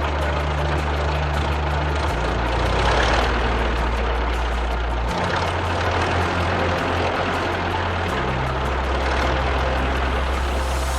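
Heavy engine running steadily with a low hum, its pitch stepping abruptly a few times, over a continuous rumbling wash.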